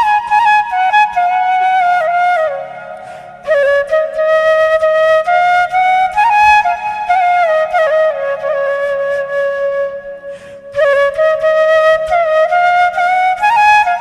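Background music: a solo flute playing a slow, gliding melody over a low drone, pausing briefly twice.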